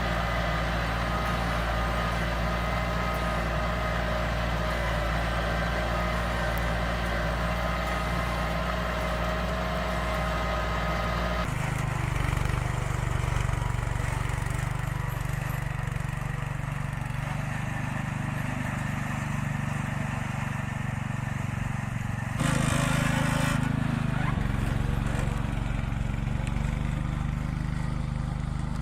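Small tractor engines running steadily under plowing load. About eleven seconds in the engine note switches abruptly to a different, lower one, and a little past two-thirds of the way through it briefly gets louder and rougher.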